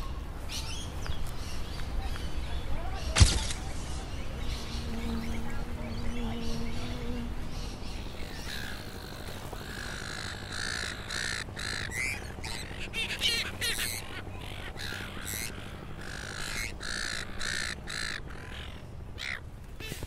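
Birds calling and chirping, thickest in the second half, over a steady low outdoor rumble. A single sharp knock about three seconds in is the loudest sound, and a brief low hum sounds around five to seven seconds in.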